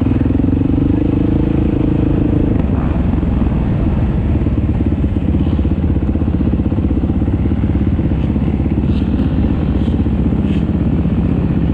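Motocross dirt bike engine running steadily up close. Its pitch settles lower after about two and a half seconds, as if it drops off the throttle.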